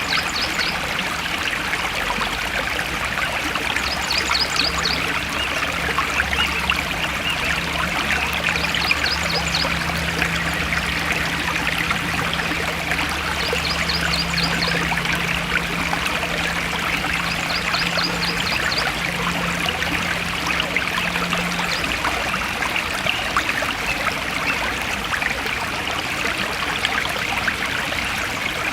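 Stream water flowing and trickling steadily through a forest, an even unbroken rush.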